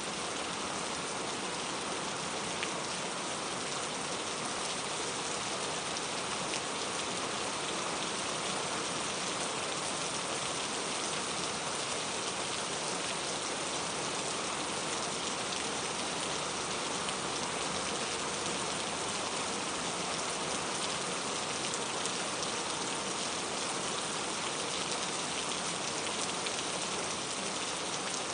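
Steady rain falling, an even hiss of drops spattering on a surface with no pauses or changes.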